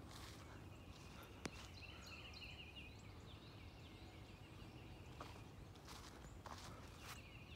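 Faint bird calls chattering, with soft rustling footsteps and one sharp click about a second and a half in.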